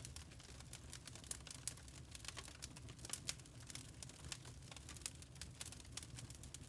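Burning charcoal crackling, with many small, irregular pops and ticks over a faint, steady low hum.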